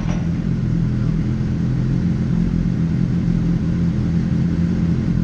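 Motorcycle engine running at steady revs with a low rumble, its pitch holding even.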